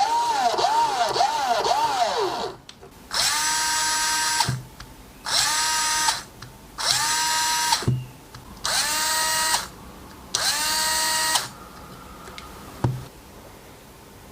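EZ6225 cordless drill-driver motor whining as the trigger is pulsed. At first it revs up and down about twice a second, then it runs in five short bursts of about a second each, each spinning quickly up to speed. A few short knocks come between the bursts.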